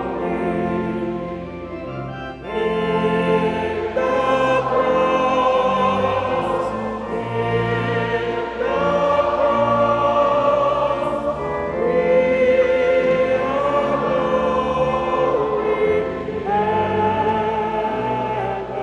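Choral music: a choir singing in long held notes.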